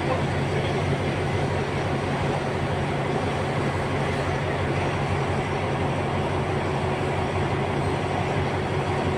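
Passenger coaches rolling slowly past a platform during shunting, with a steady low diesel engine hum and the noise of wheels on the rails.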